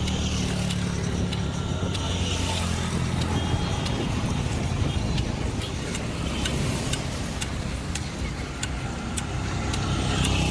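A car running, with a steady low engine drone.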